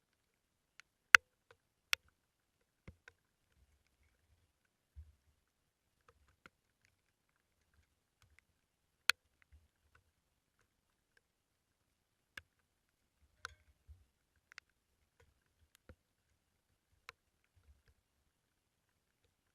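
Sparse, irregular sharp taps and ticks with near quiet between them, the loudest about a second in, again just after, and once more about nine seconds in.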